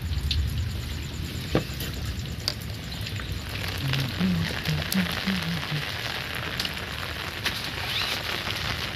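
Steady rain hiss with scattered drips and taps. A few short, low-pitched sounds come between about four and five seconds in.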